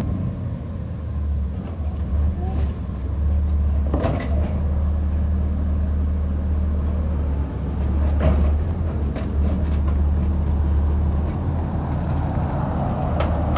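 Garbage truck's engine running with a steady low rumble, with a few brief knocks or clanks about every four seconds.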